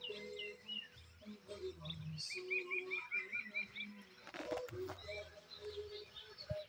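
Small birds chirping and calling, with a quick run of about eight repeated chirps a little over two seconds in. A brief noisy rustle comes about four and a half seconds in.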